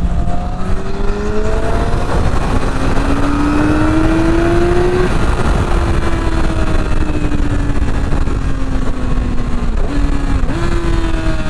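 Yamaha R6's inline-four engine under way on the bike, rising in pitch for about five seconds as it accelerates, then easing off with a slowly falling pitch, with a brief dip and quick jump back up near the end. Heavy wind rush runs underneath.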